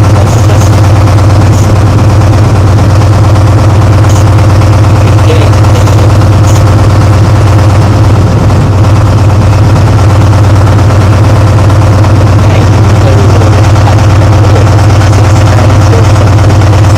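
Class 66 diesel locomotives' EMD two-stroke V12 engines idling close by: a loud, steady drone that does not change.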